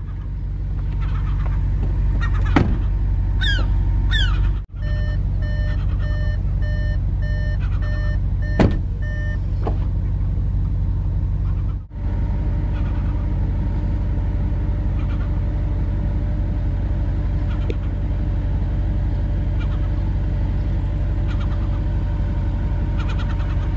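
Audi RS5's 4.2-litre V8 idling steadily. About five seconds in, a repeating electronic warning chime sounds for around four seconds, and there are a couple of sharp knocks.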